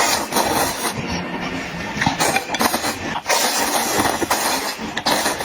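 Close-miked eating sounds: irregular bursts of chewing and slurping, with light clinks of utensils.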